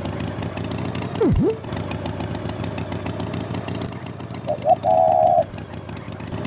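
A small engine runs steadily, a cartoon sound effect in the manner of a toy tractor. About a second in there is a quick swooping glide down and back up. Near the end there are two short beeps and then a held, warbling horn-like tone.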